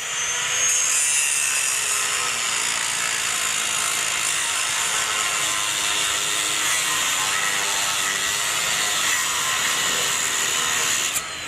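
A power tool cutting metal, running steadily with a loud, high-pitched noise whose whine shifts slightly in pitch as it works, then cutting off near the end.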